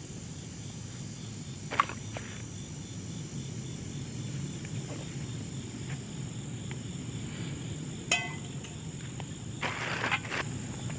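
Insects trilling steadily over a low, steady rush, with a few sharp clicks and clatters, one about 2 s in, one around 8 s, and a short cluster near the end.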